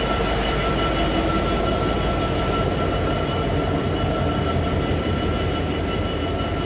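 DB Cargo Class 66 diesel locomotive, with its EMD two-stroke V12 engine, idling while it stands, a steady drone with a thin, steady whine above it.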